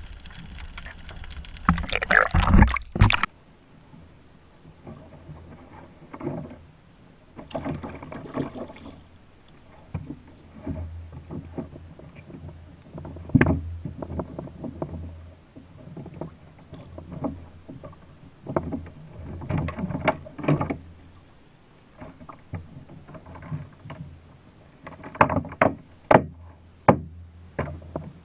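Hobie Outback kayak on the water: irregular knocks and bumps on the plastic hull with some water sounds, loudest in a burst of knocking about two to three seconds in.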